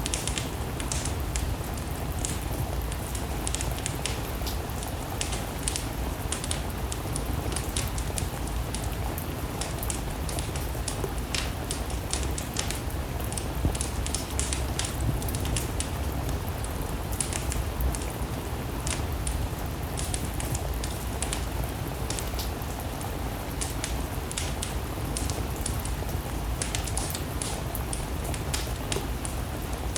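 Steady rain together with a wood fire crackling in a fireplace: a constant hiss with frequent short pops and snaps throughout.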